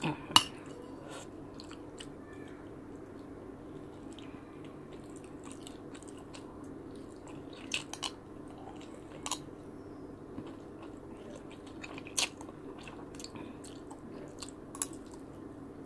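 A person chewing a mouthful of rice and soup, with quiet mouth sounds and a few short sharp clicks, over a steady low hum.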